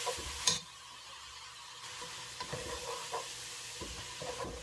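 Onion and ground-spice masala with a splash of water sizzling in the pot while it is stirred, with a few short scrapes of the stirring spoon. There is one sharp clink about half a second in, after which the sizzle is quieter.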